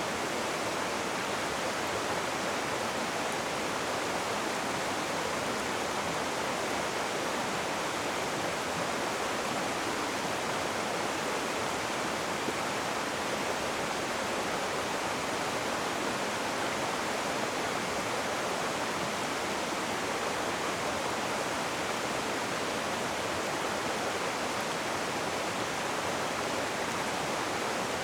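Rushing river water: a steady, even hiss of fast-flowing water over rocks, with no let-up.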